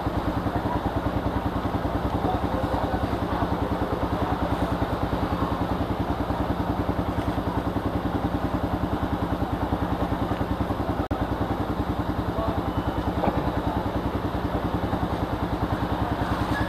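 Manual-gear motorcycle engine idling steadily, an even, rapid pulsing beat.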